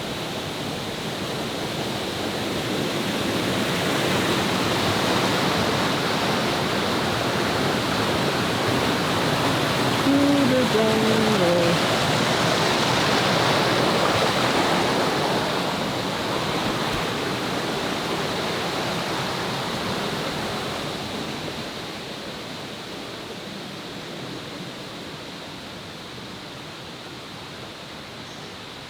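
Rushing water of a jungle river, a steady loud roar that swells over the first few seconds and fades gradually through the second half. A short falling call is heard briefly about ten seconds in.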